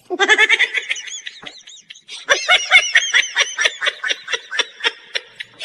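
Laughter in quick, high-pitched ha-ha pulses: a short fast burst, a pause, then a longer run of about four to five laughs a second that slowly slows.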